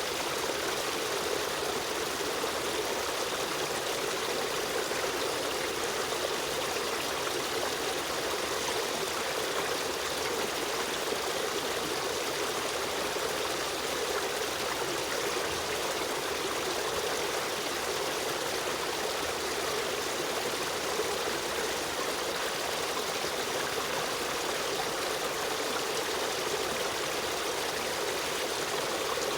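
Stream water running and trickling in an even, unbroken rush.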